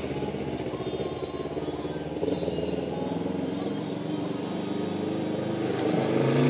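A motor vehicle engine running steadily, getting louder near the end.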